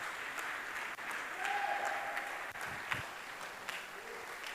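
Church congregation applauding, an even spread of clapping, with a short held tone heard about one and a half seconds in.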